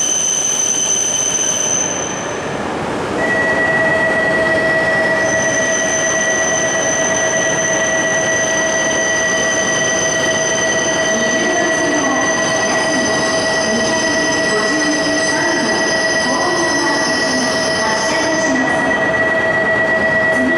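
E5 series Shinkansen train departing from a platform. About three seconds in, two steady high-pitched whines come in and hold over the running noise of the train.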